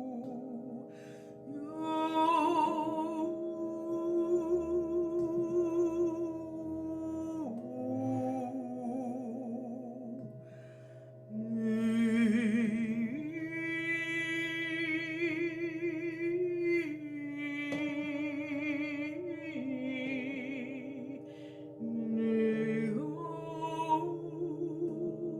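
A woman's voice singing wordless held notes with a wavering vibrato, moving to a new pitch every few seconds, over a steady drone of sustained tones.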